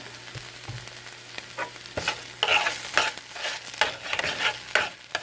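A spoon stirring a thick tomato and vegetable sauce in a pot, with irregular scrapes and knocks against the pot over a light sizzle.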